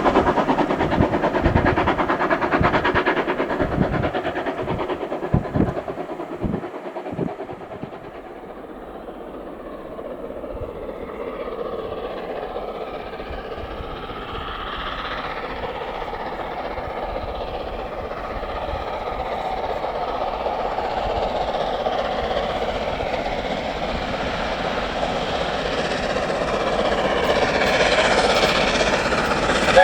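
A steam train passing, its wheels clattering over rail joints with a run of low knocks. The sound dies away after about eight seconds, then a steady rumble builds slowly again toward the end.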